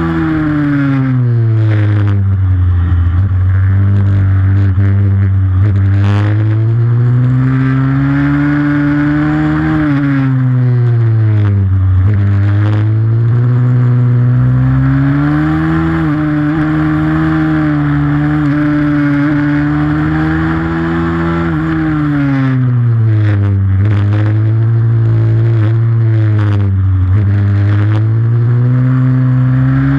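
Racing pit bike engine under hard riding, its pitch dropping as it slows for corners and climbing again under throttle, over and over, with a few sharp knocks along the way.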